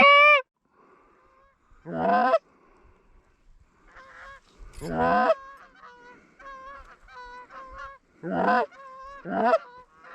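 Geese honking: loud single honks every second or few, with a run of fainter honks in between.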